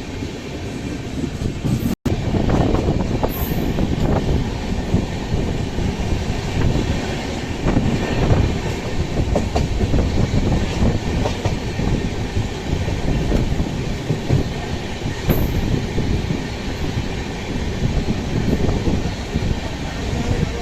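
Express passenger train running at speed: a steady rumble of the coaches with the wheels clacking irregularly over rail joints. The sound cuts out for an instant about two seconds in.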